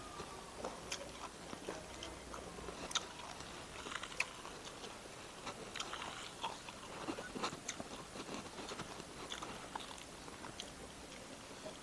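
A person chewing and biting food close to the microphone, with many small, irregular crunches and mouth clicks; the sharpest crunches come about three and four seconds in.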